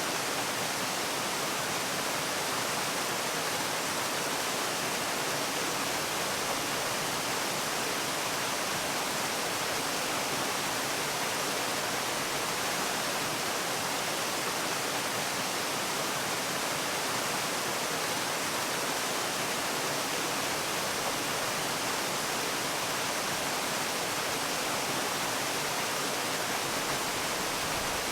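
Steady rush of falling water, like a waterfall, an even hiss without breaks.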